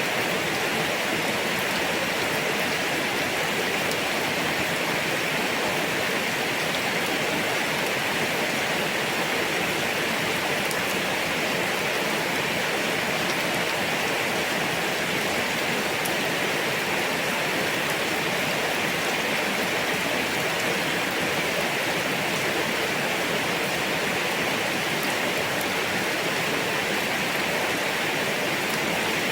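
Steady heavy rain: a constant, even hiss of falling rain with no breaks or changes.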